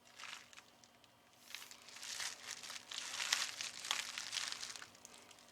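Packaging crinkling and rustling as it is handled: a short rustle at the start, then a longer spell of crinkling for about three seconds.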